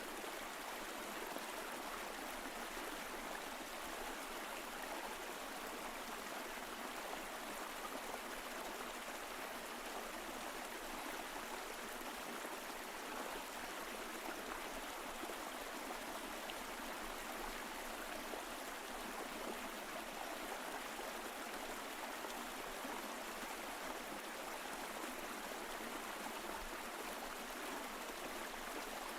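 Mountain stream flowing over rocks, a steady even rush of water with no change.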